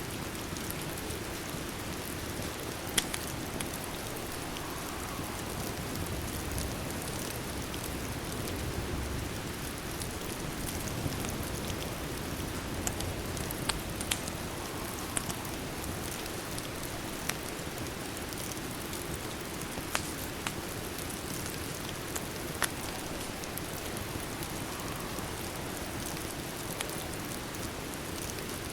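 Steady rain ambience with occasional sharp crackles from a fireplace scattered through it.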